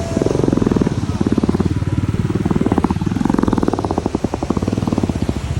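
Motorcycle engine running with a fast, even firing pulse that swells and eases several times as the throttle is opened and closed.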